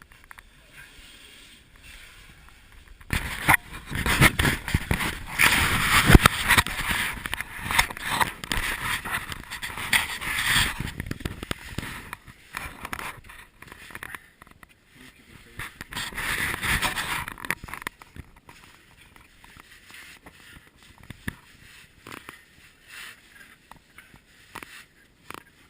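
Close-up scraping and rustling with sharp knocks, from handling and movement right at the microphone. It is loudest for several seconds starting a few seconds in, and again briefly past the middle.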